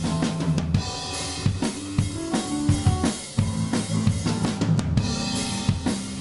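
Instrumental band playing live: a drum kit with kick and snare hits drives over bass and other pitched instruments.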